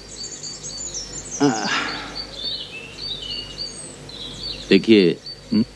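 Birds chirping in short, high notes, some runs stepping down in pitch, with a brief human voice sound about a second and a half in.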